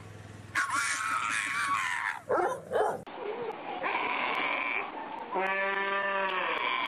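Animals screaming and bleating in two cut-together clips: first a harsh cry that falls in pitch, then, after a cut, long held bleating calls, one high and one lower and strongly pitched.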